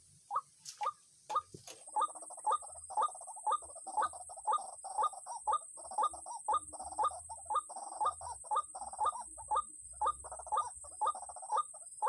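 White-breasted waterhen calling: a long series of short, repeated notes at about three a second, denser and more chattering from about two seconds in. A steady high-pitched insect drone starts at the same moment.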